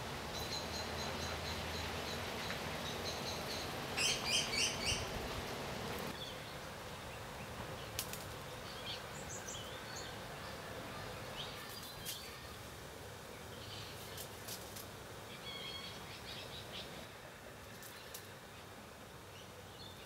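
Birds calling: a run of four loud chirps about four seconds in, then scattered faint chirps and light clicks, over a steady hiss that drops away about six seconds in.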